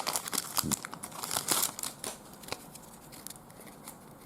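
Trading card pack wrapper crinkling and tearing as a new pack is opened by hand. Busy crackling for the first two seconds or so, then only a few faint clicks.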